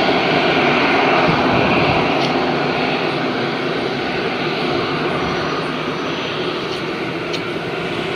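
Jet engines of an EasyJet Airbus A320-family airliner at takeoff power: a steady, rushing jet noise that slowly fades as the aircraft moves away.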